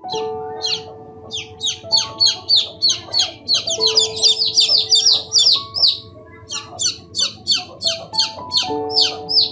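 A bird chirping in a rapid run of short, high calls, about three to four a second, with a brief break about six seconds in, over soft background music with held notes.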